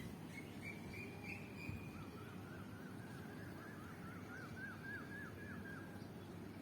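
A bird calling: a thin high note, then a run of short repeated chirping notes that come faster and climb slightly in pitch, over a steady low background noise.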